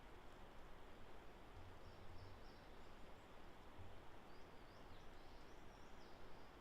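Near silence: quiet woodland ambience with a few faint, high bird chirps about two seconds in and again around five seconds.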